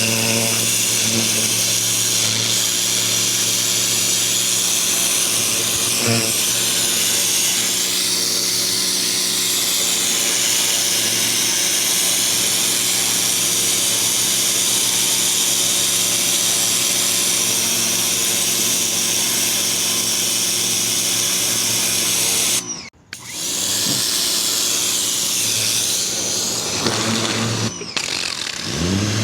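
Ryobi 2000 PSI electric pressure washer running, its motor humming under the steady hiss of the water jet. Spray and motor cut out for a moment about 23 seconds in, and briefly again near the end, then start back up.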